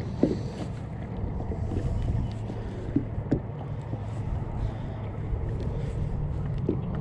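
Steady low wind rumble on the microphone out on open water, with a few short sharp knocks, about four in all.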